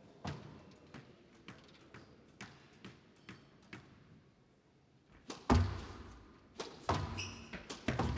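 Squash rally: the ball struck by rackets and hitting the court walls in a steady exchange of light knocks about twice a second, then louder thuds from about halfway through.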